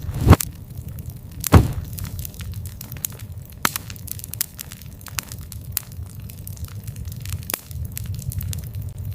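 Campfire crackling: a steady run of sharp snaps and pops over a low rumble, with two loud pops in the first two seconds.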